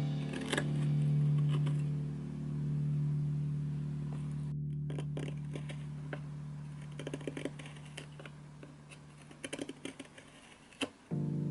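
Small, irregular scrapes and clicks of a carving tool working camphor wood, coming thicker in the second half, with one sharp click near the end. A low held music tone fades out underneath in the first part.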